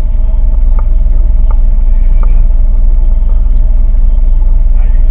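A boat's engine running steadily with a loud low rumble and a steady hum, with a few faint ticks about three quarters of a second apart in the first half.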